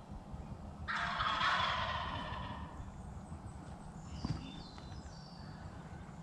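Wild turkey gobbling once, a rattling call about a second in that fades out over a second or so. Faint high chirps of small birds follow.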